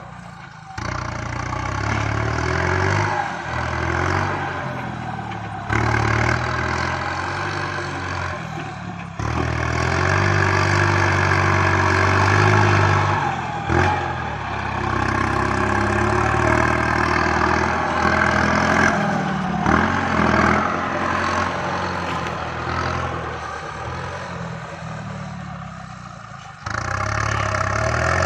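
Kubota MU5702 tractor's diesel engine running under working load, its revs rising and falling, with several sudden jumps in level.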